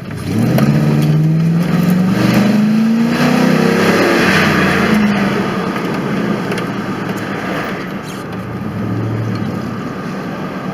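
Ford F-150's Triton V8 breathing through a K&N cold air intake and exhausting through a Flowmaster Super 44 muffler, accelerating with the engine pitch rising for about three seconds, then easing off to a steady cruise. Wind and road noise come in through the open windows.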